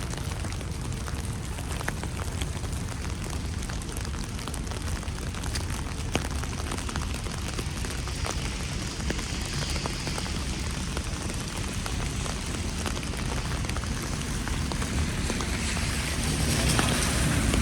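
Steady patter of wet snow and rain falling, with many small scattered drops. A broad rush of noise swells up near the end.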